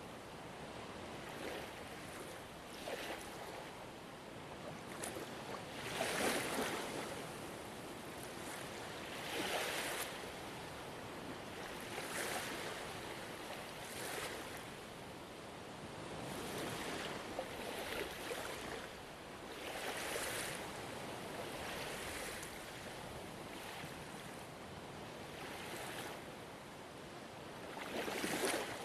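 Gentle ocean waves washing onto a shore: a steady wash of surf with irregular swells every second or two, a few of them louder breakers.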